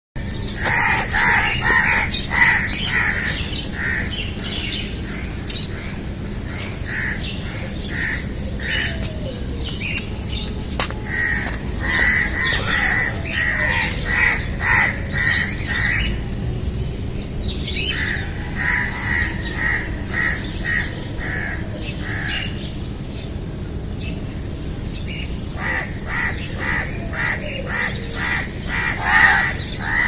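Birds calling in bouts of short repeated notes, two or three a second, with pauses of a few seconds between bouts. A steady low hum runs underneath.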